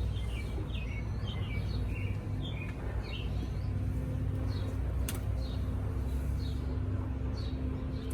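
Small birds chirping repeatedly over a steady low rumble and a faint steady hum of honeybees flying around an open hive. One sharp click about five seconds in.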